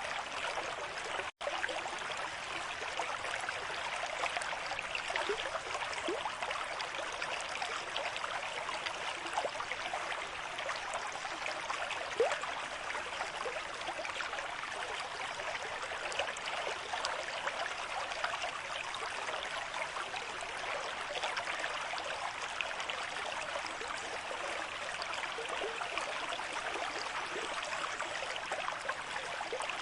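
River stream flowing at a moderate rate: a steady rush of water with small gurgles through it, broken by a split-second dropout about a second and a half in.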